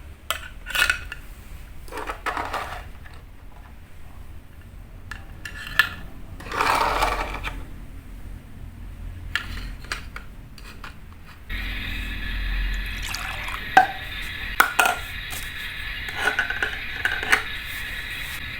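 Small miniature kitchen utensils and dishes clinking and clattering, with something poured or stirred. About two-thirds of the way through, a steady hiss starts and runs under further clicks.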